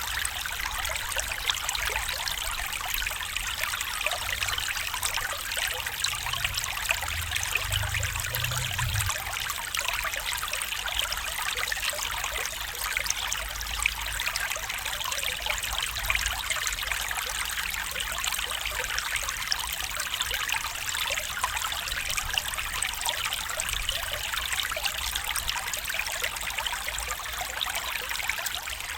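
A small stream trickling and babbling steadily over stones, an even rush of running water.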